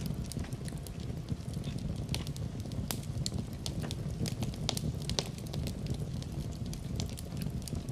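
Larch-wood fire crackling, with sharp irregular pops several times a second over a steady low rumble.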